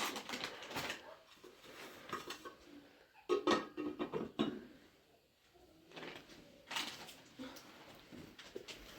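Irregular clinks and knocks of kitchenware being handled, with a louder cluster of knocks around the middle.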